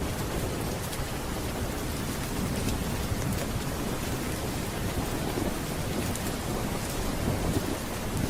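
Thunderstorm ambience: steady rain with a low rolling thunder rumble that swells about two-thirds of the way through, and faint sharp ticks now and then.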